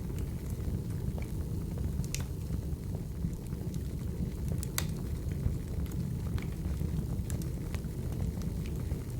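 Firewood burning: a steady low rumble of flames with scattered sharp crackles and pops, the loudest about two seconds in and again near the middle.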